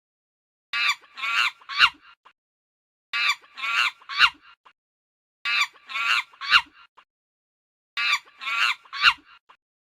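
Chicken calling in short three-note phrases, the last note the loudest and falling in pitch. The same phrase repeats four times, about every two and a half seconds.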